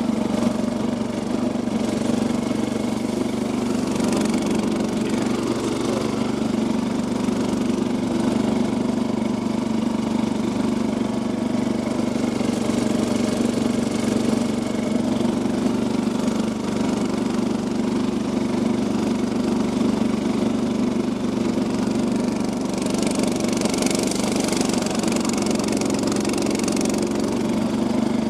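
Engine of an off-road converted Yazoo riding lawn mower running at a steady speed. A hiss joins in for a few seconds near the end.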